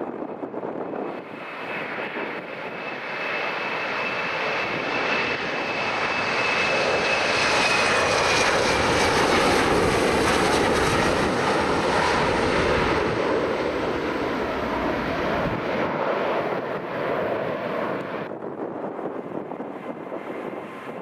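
An airliner passing close by: its engine noise builds to a peak about halfway and then fades, with a high whine that slowly falls in pitch over the first several seconds.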